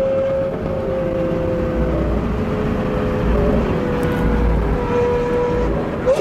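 Car engine holding a steady note at highway cruising speed over tyre and road noise, its pitch drifting slightly; a quick rise in engine pitch comes right at the end.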